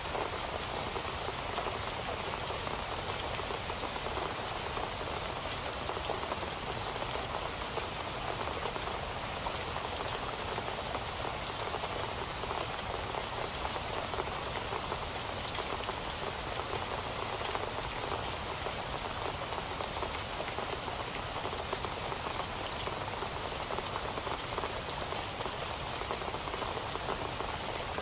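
Steady rain falling, a dense, even patter of many drops on a surface with no let-up.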